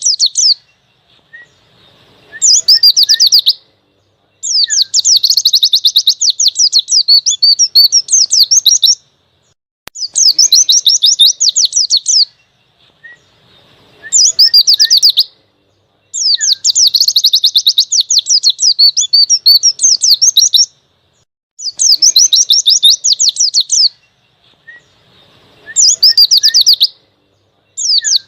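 White-eye (pleci) song: fast, high chattering trill phrases, some about a second long and some running four seconds or more, repeated with short pauses and soft single chirps in between. The same sequence comes round again about every twelve seconds, as a looped masteran (song-tutor) recording of wild-style 'ngalas' song.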